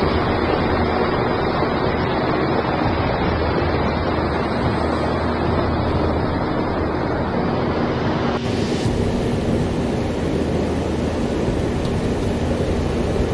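Steady rushing noise of wind and water, with wind buffeting the microphone. Its high end changes abruptly a little past halfway.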